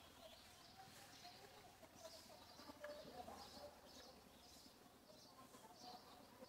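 Faint birdsong: short high chirps repeated over and over.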